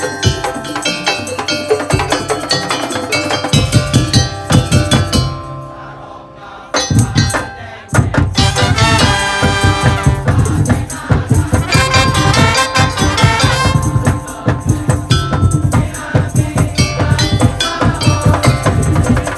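Madurese tong-tong percussion ensemble playing: dense rhythmic drumming and rattling under melodic lines. It drops to a quieter passage about five seconds in, then the full band comes back with heavy low drum beats about eight seconds in.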